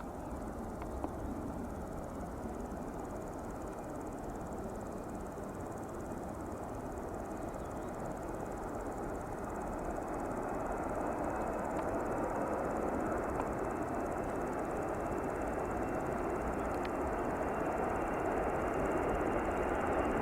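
Jet engines of a Boeing 747-400 airliner: a steady rush that grows gradually louder, with a thin high whine slowly rising in pitch.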